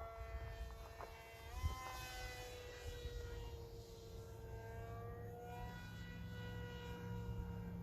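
Faint whine of a small RC plane's Racerstar BR2403 2300 brushless motor swinging a 6045 propeller, flying far off. Its pitch jumps up about one and a half seconds in, then sags and wavers.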